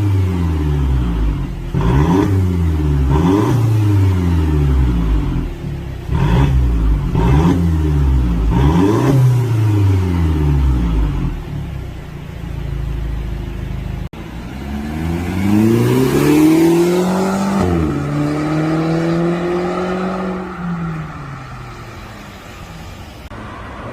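Mercedes-Benz R172 SLK200's turbocharged four-cylinder engine through a loud aftermarket exhaust, blipped up and down about six times in quick succession, then settling lower. About fifteen seconds in it climbs in a longer rev, holds at a higher pitch for a few seconds and drops back to idle.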